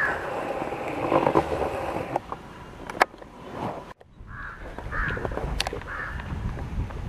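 Bird calls outdoors: short calls repeated every half second to a second, with a sharp click about three seconds in and a brief drop-out in the sound just before four seconds.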